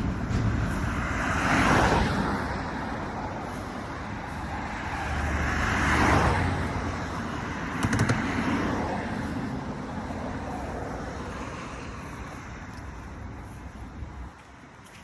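Road traffic: cars driving past with a low engine rumble, two louder passes about two and six seconds in, and a short knock about eight seconds in. The traffic fades toward the end.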